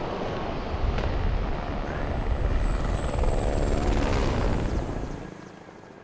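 Helicopter running, with a heavy low rumble that fades away about five seconds in.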